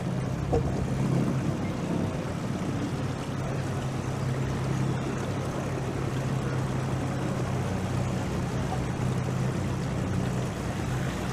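Small motorboat's engine running at a steady speed.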